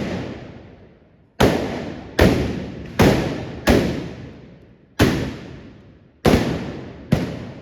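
Trabucs (Catalan blunderbusses) firing black-powder blanks: seven sharp, loud blasts at irregular intervals of about one second, each followed by a long echoing decay.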